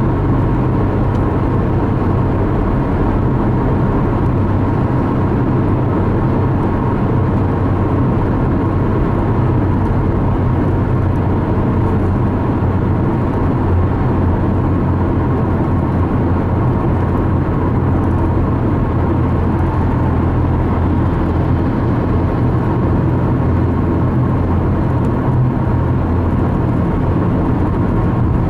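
Steady drone of a car driving on the highway, heard from inside the cabin: tyre and engine noise with a low hum, unchanging throughout.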